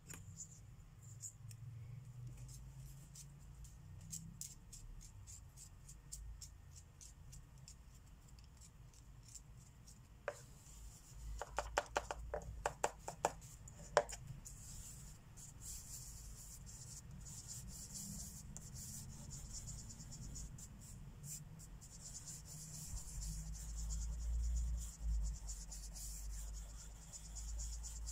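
Marker tips scratching on paper in quick, repeated coloring strokes. About ten seconds in there is a short run of sharper clicks.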